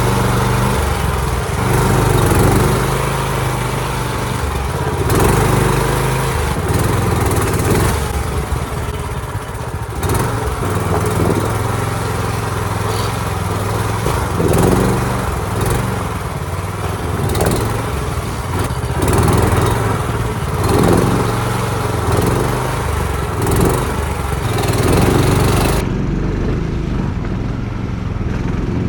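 Longtail mud motor on a jon boat running hard, its engine note rising and falling with the throttle. Over it runs a steady hiss that drops away near the end.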